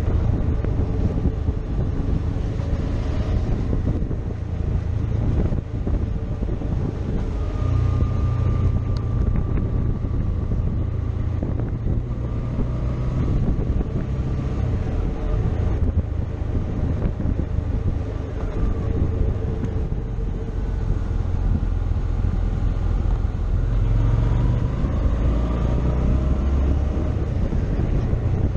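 Motorcycle engine running while riding, its pitch drifting slowly up and down with the throttle, under a steady rush of wind on the microphone.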